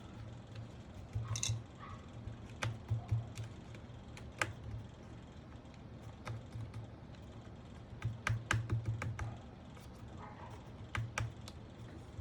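Typing on a Sky87 mechanical keyboard with Gateron Pro Milky Yellow switches and MDA-profile keycaps: scattered keystrokes, with a quicker flurry about eight seconds in.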